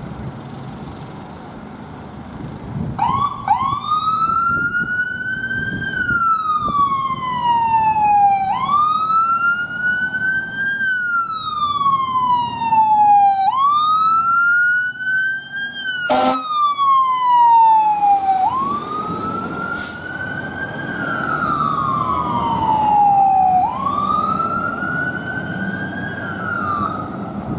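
Fire apparatus siren on wail, starting about three seconds in. Each cycle rises quickly and then falls slowly over about five seconds, with a brief sharp blip about halfway and a truck engine rumbling underneath.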